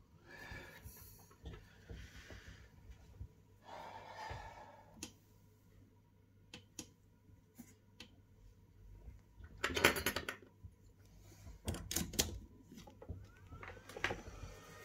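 Small metal tools clicking and scraping on a phone's logic board, irregular light ticks with louder clusters of clicks and scrapes about ten and twelve seconds in.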